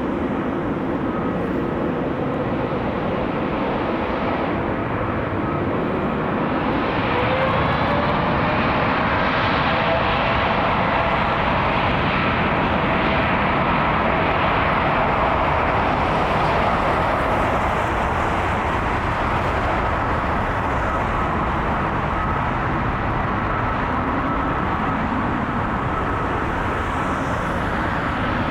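Boeing 787-10's two GE GEnx-1B turbofan engines at takeoff thrust: a loud, steady jet noise with a tone that rises in pitch from about six seconds in, loudest in the middle.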